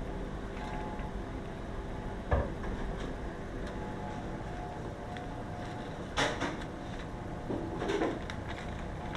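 Steady mechanical hum with a sharp knock about two seconds in and two brief clattering rustles near the end.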